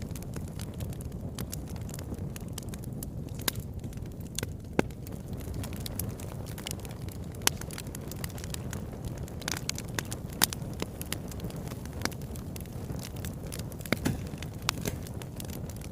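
Wood fire burning in a fireplace: a steady low rumble with frequent sharp crackles and pops, and a few louder snaps, about five seconds in, seven and a half seconds in and ten and a half seconds in.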